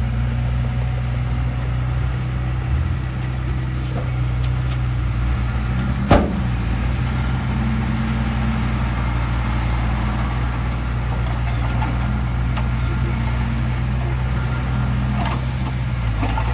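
Heavy diesel engine of earthmoving machinery running steadily at a constant pitch, with a single sharp knock about six seconds in.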